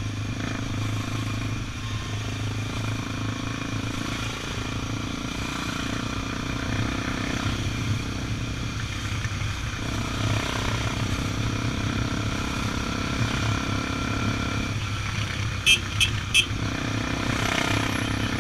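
Honda XR 250 Tornado's single-cylinder four-stroke engine running steadily at cruising speed, with road and wind noise. Three brief sharp clicks near the end.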